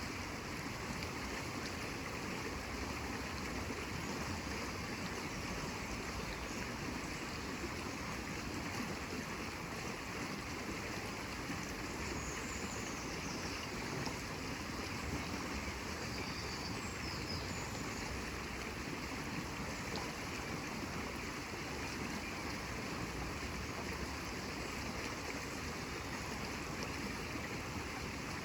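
Steady, even rush of flowing water, like a stream, with a faint high chirp about twelve seconds in.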